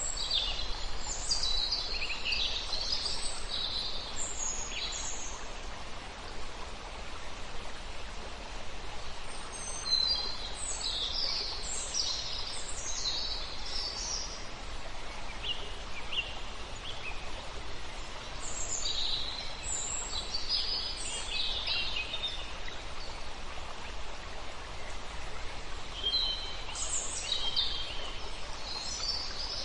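Songbirds singing in bursts of quick high chirps a few seconds long, with pauses between, over the steady rushing of a stream.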